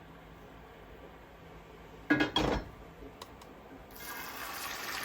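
Kitchenware clattering loudly about two seconds in, a couple of light clicks, then a steady hiss that builds from about four seconds in.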